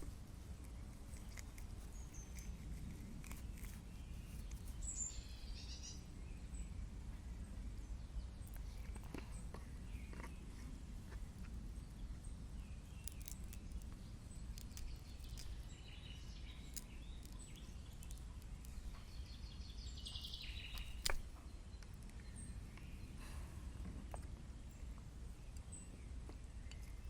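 Forest ambience: a steady low rumble with faint bird chirps now and then, a few small clicks, and one sharp click about 21 seconds in.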